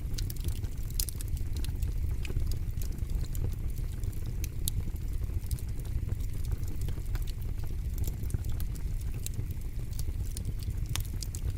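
Wood fire burning in a fire pit: irregular sharp crackles and pops from the burning wood over a steady low rumble.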